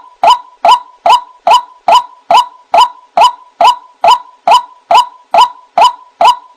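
White-breasted waterhen calls, played as a trapping lure: a rapid, very even series of short "wak" notes, about two to three a second, with a faint steady tone underneath.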